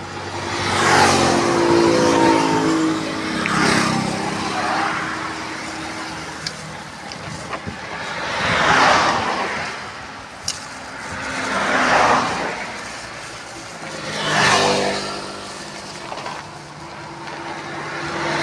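Road traffic: vehicles passing one after another, about six in all, each swelling up and fading away, some with a humming engine note.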